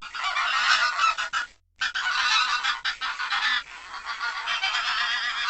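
A flock of geese honking, many calls overlapping, with a short break just under two seconds in.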